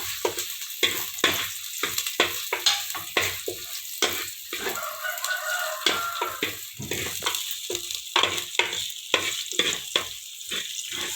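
Chopped garlic, green chillies and ginger sizzling in hot oil in a pan. A spatula stirs them with quick, repeated scrapes and taps against the pan, about two a second.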